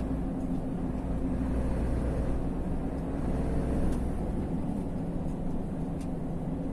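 Steady engine drone and road noise of a vehicle being driven, heard from on board, with a low hum that holds a constant pitch.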